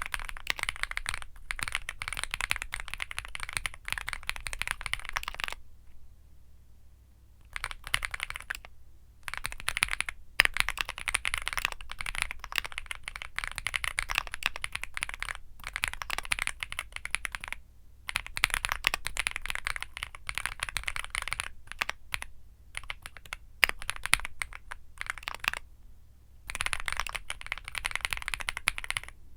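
Continuous fast typing on a Womier SK75 mechanical keyboard with Womier Mint Blizzard switches: a rapid run of key clacks, broken by a few short pauses, the longest beginning about six seconds in.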